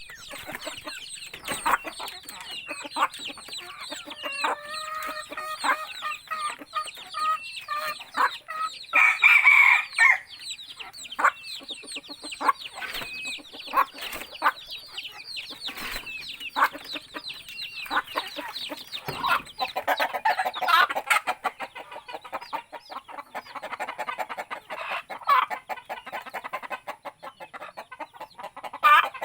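Chickens clucking, with many short sharp clicks and one louder, longer call about nine seconds in.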